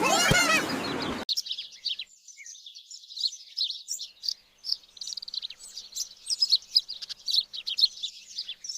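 Many small birds chirping and twittering in rapid, high, overlapping notes. This comes in after a louder, noisy sound with sliding pitch that cuts off abruptly about a second in.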